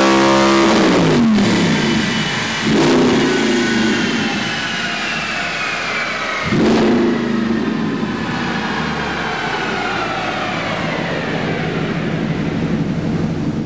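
Audi R8 4.2-litre V8 through a straight-pipe exhaust, held at high revs and then letting off so the revs fall, with two sharp throttle blips about 3 and 6.5 seconds in. After that it settles to a lower steady note while a high whine slowly falls in pitch.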